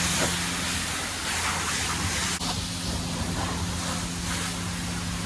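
High-pressure water spraying from a self-serve car wash wand as a car is rinsed, a steady hiss with a low steady hum underneath and one brief click about two and a half seconds in.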